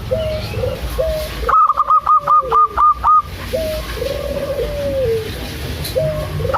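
Zebra dove (perkutut) cooing. A loud phrase of about seven quick staccato notes comes between about one and a half and three seconds in, with softer, lower coo notes before and after it.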